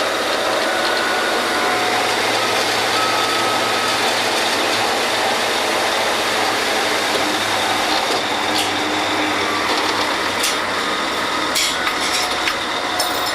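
Drilling rig machinery running loudly and steadily while the crew makes up a joint of drill pipe, with a few short squeals and several sharp metal clanks in the last few seconds.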